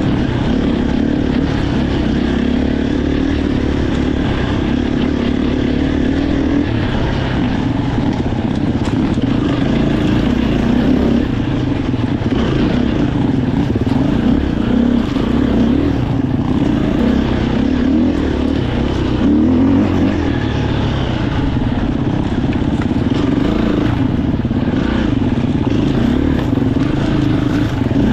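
Enduro dirt bike engine running while being ridden off-road, its note rising and falling with the throttle.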